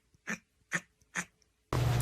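A pet animal making a series of short, sharp sounds in an even rhythm, about two a second. About 1.7 s in it cuts off abruptly, replaced by a steady low hum with room noise.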